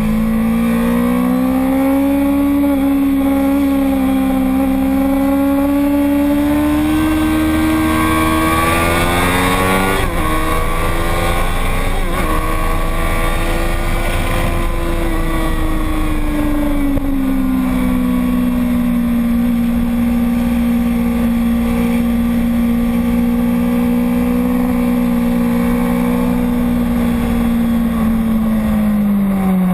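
Motorcycle engine running hard at high revs on a racetrack. Its pitch climbs for about ten seconds, breaks sharply twice around 10 and 12 seconds as the gears change, then drops and holds a steady drone to the end.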